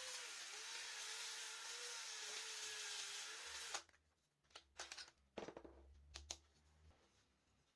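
Power drill running steadily with a slightly wavering whine, cutting off sharply a little under four seconds in, followed by a few light knocks and clicks.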